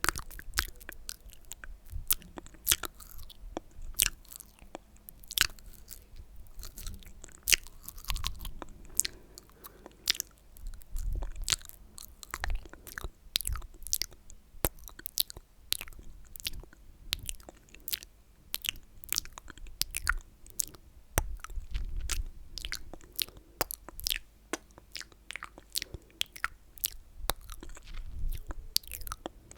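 Close-miked ASMR mouth sounds: a continuous, irregular run of sharp, wet, sticky clicks and smacks of lips and tongue, several a second.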